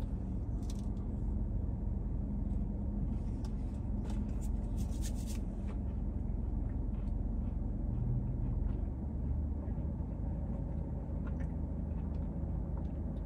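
A person chewing a bite of chocolate chip cookie, with faint crunching clicks in the first half, over a steady low hum in a car cabin.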